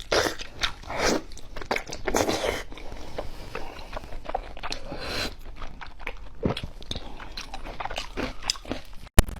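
Close-miked crunchy biting and chewing of food, a run of crisp crackling bites. There is one sharp click near the end.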